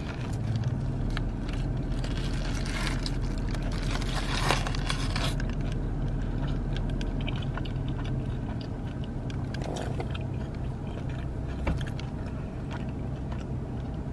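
A person chewing a bite of burger, with the foil-and-paper wrapper crinkling now and then, loudest about four to five seconds in, over a steady low hum inside the car.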